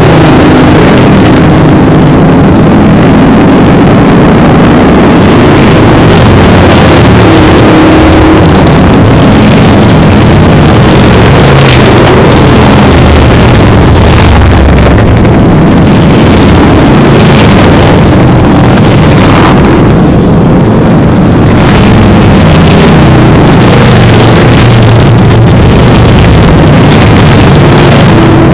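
A long procession of motorcycles riding past, many engines running loud at once, with pitches rising and falling as individual bikes pass.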